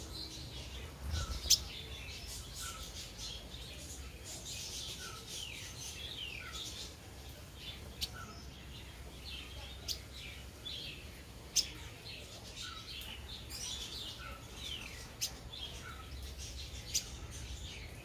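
Small birds chirping: many quick, high, downward-slurred notes, over a soft lower peep that recurs every second or so. About six sharp clicks cut through, the loudest about a second and a half in.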